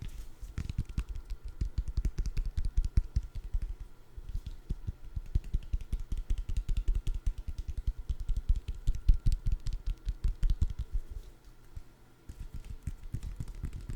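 Rapid light tapping on a food item close to the microphone, many soft clicks a second, with a short lull near the end.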